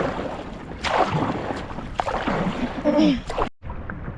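Paddle strokes splashing in seawater, roughly one a second, with a brief voice near the end. The sound cuts off abruptly about three and a half seconds in.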